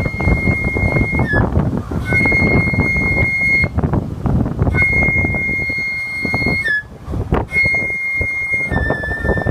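Umebue flute playing long, high, steady notes, five in a row with short gaps, the last one a little lower. Strong wind buffets the microphone underneath with a heavy rumble.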